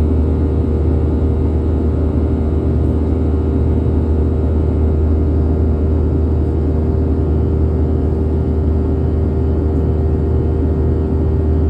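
Boeing 737-800's CFM56-7B turbofan engines running at steady high power during takeoff: a constant deep rumble with a steady hum above it, unchanging throughout.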